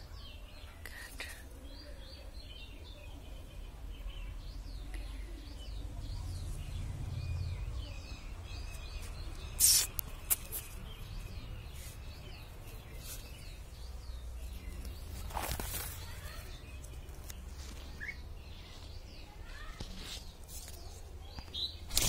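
Small birds chirping repeatedly in short high notes over a low rumble of wind and phone handling, with two brief sharp noises about ten and fifteen seconds in.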